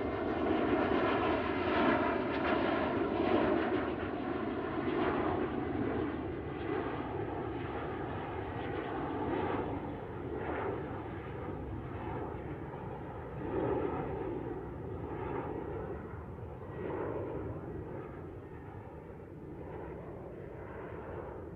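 Airplane flying low on its landing approach, its engine noise a steady rush that slowly fades as it moves away.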